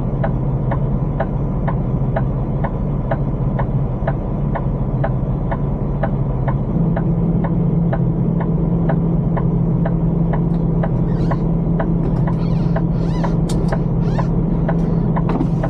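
Semi-truck's diesel engine running heard from inside the cab, its low hum stepping up in pitch about seven seconds in. Over it an indicator ticks at an even, steady pace, and a few short sharp noises come near the end.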